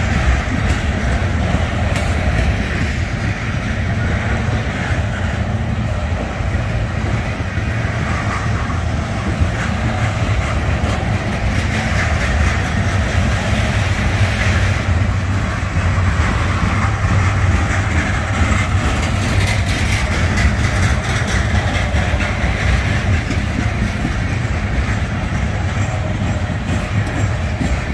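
Freight train of container flatcars rolling past: a steady rumble and rattle of steel wheels on the rails that holds without a break.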